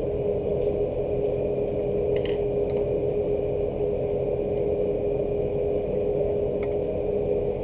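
Steady low hum with a constant tone, with a couple of faint ticks about two seconds in and near the end.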